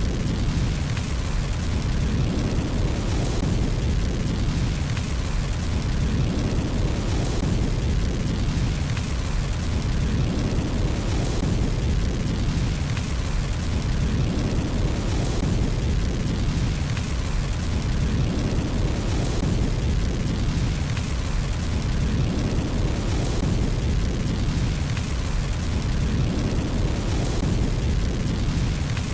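Fireplace fire burning with a steady low rumble and crackle, and a hissing swell that comes back evenly about every four seconds.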